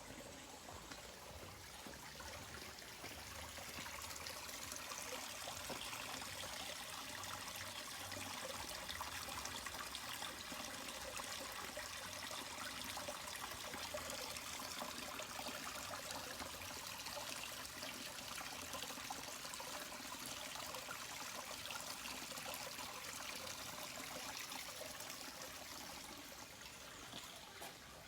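Steady trickling, hissing water, swelling over the first few seconds and easing off near the end.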